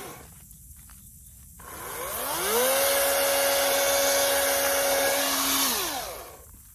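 Toro battery-powered chainsaw's electric motor spinning up with a rising whine, running at a steady pitch for about three seconds, then winding down and stopping.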